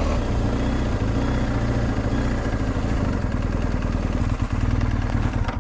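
BMW R 1250 GS Adventure's boxer twin engine running steadily at low revs, an even low engine note with fine rapid pulsing that gets slightly rougher after about three seconds.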